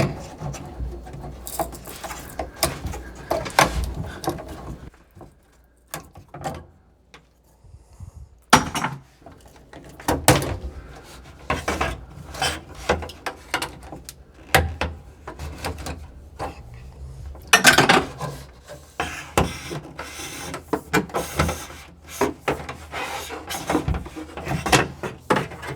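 Irregular knocks, clunks and scraping of objects being handled during plumbing work, with a quieter pause of a few seconds about a fifth of the way in.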